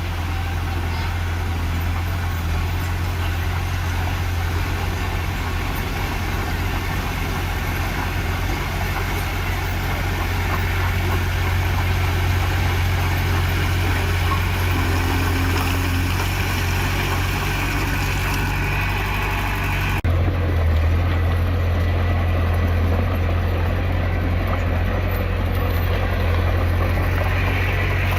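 Heavy construction machinery's diesel engine running steadily with a deep low hum; the sound changes abruptly about twenty seconds in.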